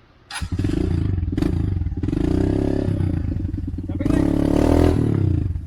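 Motorcycle engine revving up and down under load, starting abruptly a moment in, its pitch rising and falling repeatedly, with some clatter.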